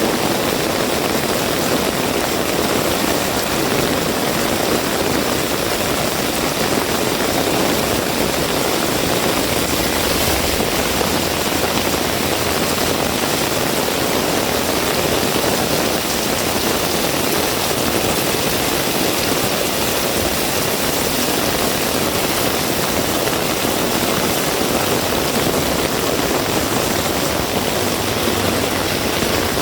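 Heavy rain falling steadily, a dense, even hiss with no distinct events.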